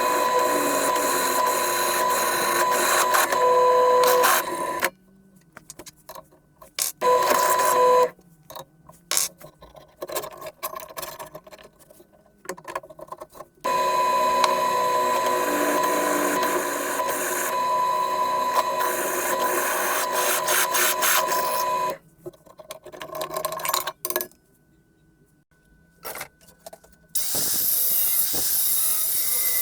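Electric power tool cutting or drilling metal with a steady whine, run in several bursts that stop abruptly between them. A hissier, brighter tool sound starts near the end.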